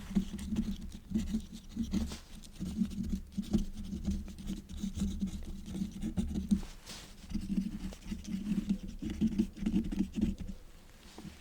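Quill pen scratching across paper in runs of short strokes, with brief pauses between runs.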